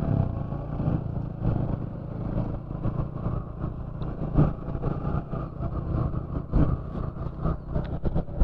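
Motorcycle engine running steadily on the move, with irregular gusts buffeting the microphone.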